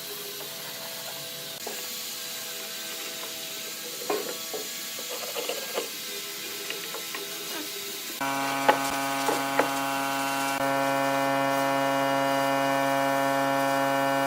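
Scraping and light knocking of wood being worked by hand, then about eight seconds in an electric power tool starts and runs with a steady hum at one pitch, growing a little louder a couple of seconds later.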